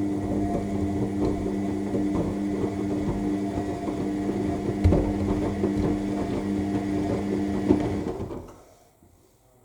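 AEG L7FE7461BI washing machine in its main wash: the drum turns the wet load with a steady motor whine and irregular knocks and splashes. The drum stops and the sound fades out near the end, a pause between tumbles.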